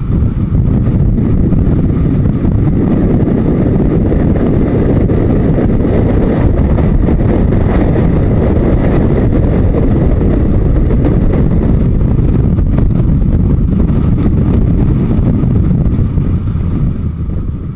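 Yamaha Diversion 900's air-cooled inline-four under way at road speed, with heavy wind rush on the microphone; the noise eases a little near the end.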